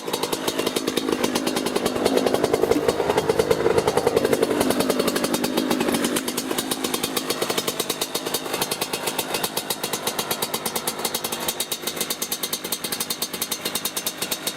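Yamaha YZ85 two-stroke dirt bike engine running while it warms up. Its rapid firing swells louder for a few seconds about two seconds in, then settles back to a steady idle.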